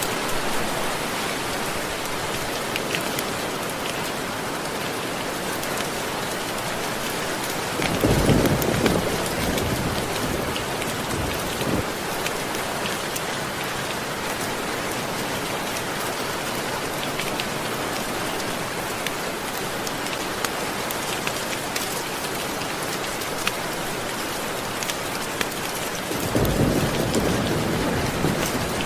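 Steady rain falling, with two low rolls of thunder, one about eight seconds in and another near the end.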